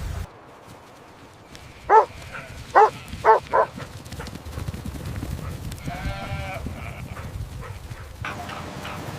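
Puppy yapping: four short, high yaps in quick succession about two seconds in, then a fainter drawn-out whine a few seconds later.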